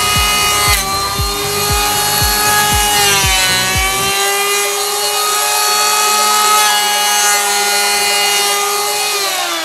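Electric hand planer (an OEM copy of the Makita N1900B) running and shaving a board, its pitch sagging and recovering about three seconds in, then winding down near the end as it is switched off. Background music with a steady beat plays under it until about four seconds in.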